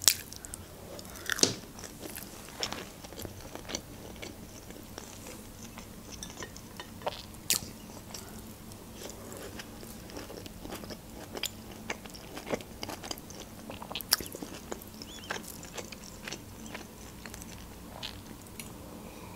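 A person chewing fried pelmeni (dumplings), with many small sharp clicks and crackles of mouth and food. The loudest come about a second and a half in, and again around seven and a half and fourteen seconds.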